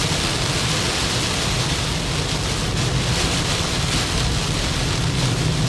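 Heavy typhoon rain hitting a moving car, mixed with a steady low rumble of tyres on the wet expressway, heard from inside the cabin.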